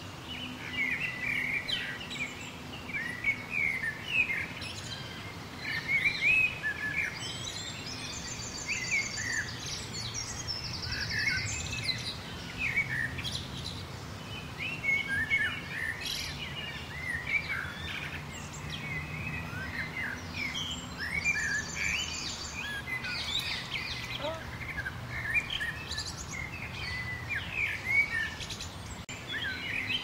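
Several birds chirping and singing at once, a dense mix of short rising and falling whistled notes, with a fast high trill twice, about 8 and 21 seconds in, over a faint steady low hum.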